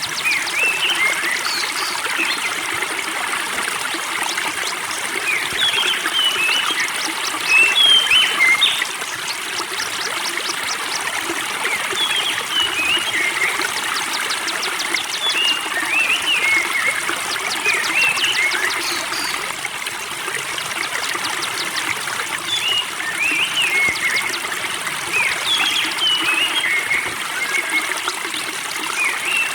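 Spring water trickling steadily, with small birds chirping in short, repeated phrases over it. The sound is briefly louder about eight seconds in.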